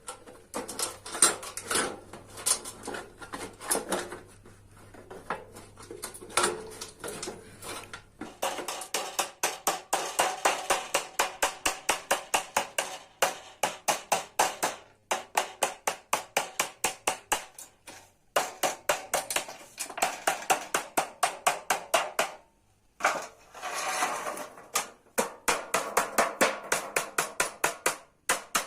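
Hand hammer striking a sheet-metal bread-baking pan as it is shaped. The blows are slow and irregular at first, then come fast and steady at about four or five a second with a metallic ring, stopping briefly a few times.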